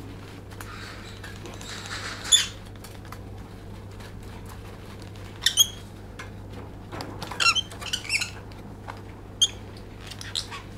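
Lovebird giving short, high, squeaky chirps, some single and some in quick clusters, over a steady low hum.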